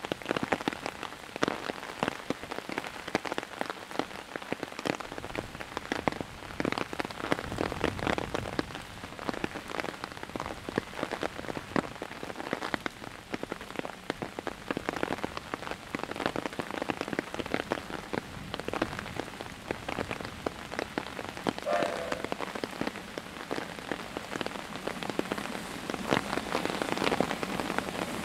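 Heavy rain falling on the trees and ground, with many close drops clicking sharply on the leaves overhead. In the last few seconds a low rumble of an approaching narrow-gauge train rises under the rain.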